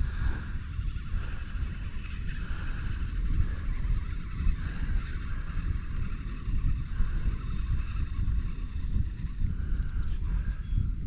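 A bird calling a short, high chirp over and over, about every one and a half seconds, over wind rumbling on the microphone.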